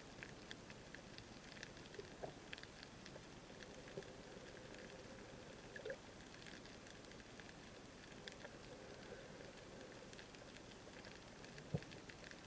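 Faint underwater sea ambience: a steady hiss of water sprinkled with small irregular clicks and crackles, with one sharper knock near the end.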